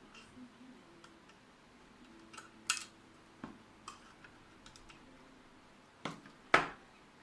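Scattered clicks and light knocks from parts of a PC ATX power supply being handled while it is taken apart, with the two loudest knocks about two and a half and six and a half seconds in.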